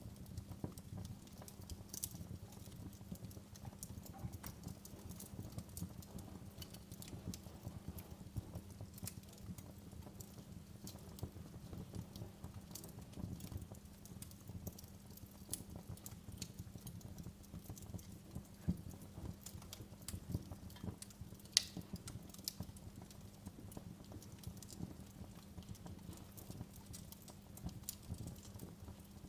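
Wood fire in a fireplace crackling, with irregular sharp pops over a low rumble and a faint steady hum. One louder pop comes about two thirds of the way through.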